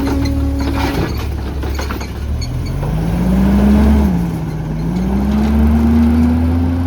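CNG Autocar ACX garbage truck pulling away: a steady whine fades out, then the engine climbs in pitch, drops once about four seconds in as the transmission shifts up, and climbs again.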